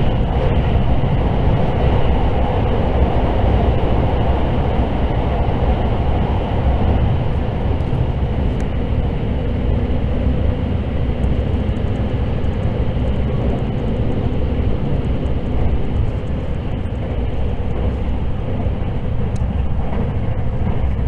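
Steady running noise of a limited express electric train heard from inside the passenger car as it travels through a tunnel: a continuous rumble of wheels on rail and rushing air.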